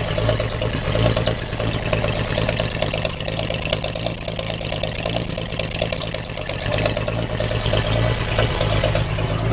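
Chevrolet 235 inline-six idling steadily at a fairly high idle, its exhaust running in even, rapid pulses through a blown-out glasspack muffler.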